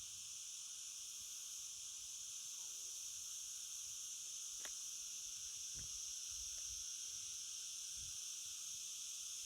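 Steady high-pitched chorus of insects, crickets or cicadas, with a few soft low bumps of wind on the microphone.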